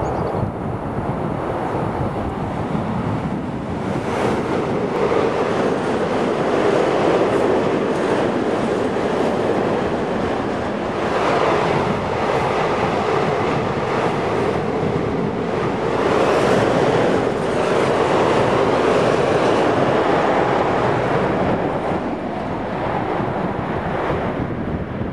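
Freight train of tank wagons running on the rails below, a steady rumble of wheels and wagons that swells and eases several times, mixed with wind buffeting the microphone.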